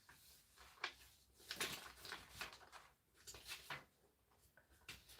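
Faint rustling and small knocks of objects being handled, in short irregular strokes about a second apart.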